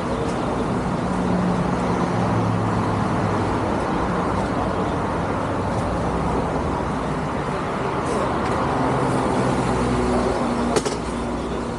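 Motorcycle running on the road, steady engine tones under a constant rush of road and wind noise, with a single sharp click near the end.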